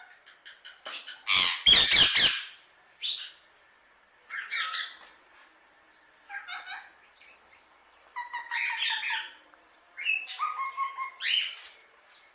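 Alexandrine parakeet squawking and chattering in a run of short calls, the loudest a harsh squawk about two seconds in.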